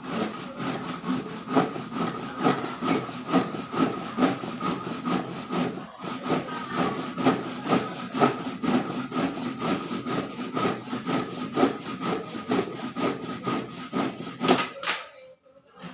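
Hand saw cutting through wood in quick, even back-and-forth strokes. There is a short pause about six seconds in, and the sawing stops shortly before the end.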